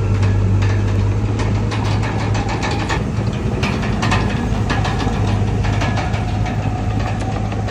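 Komatsu D31PX crawler bulldozer's diesel engine running steadily with a low drone, over irregular metallic clanks and rattles throughout.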